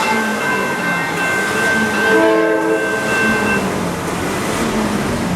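Train horn sounding as a train approaches, with a stronger blast of several notes about two seconds in, over a steady noisy background.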